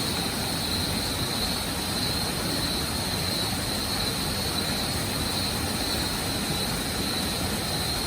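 Waterfall: a steady, even rush of falling water, with a thin steady high-pitched tone running over it.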